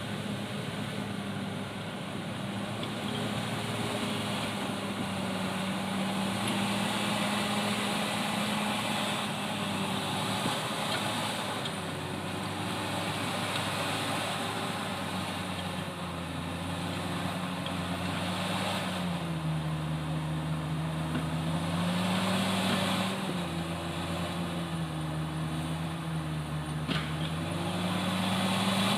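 Komatsu D68ESS crawler bulldozer's diesel engine running continuously, its pitch dipping and recovering a few times in the second half.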